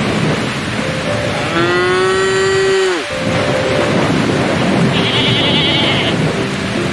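A cow moos once, a long call that falls in pitch and cuts off, over a steady hiss of rain.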